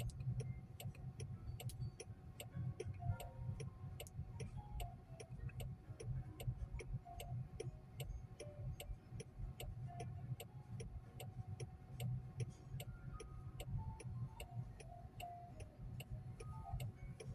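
Quiet cabin of a moving driverless car: a low road rumble under a steady, even run of soft ticks, with faint scattered notes of soft music.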